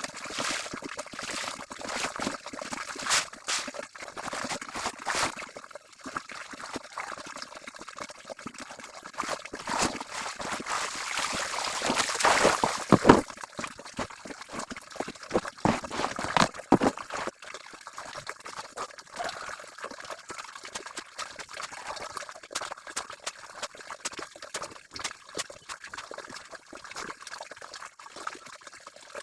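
Water being sloshed, splashed and poured while clothes are washed by hand, with irregular splashes and trickling that swell loudest about twelve seconds in.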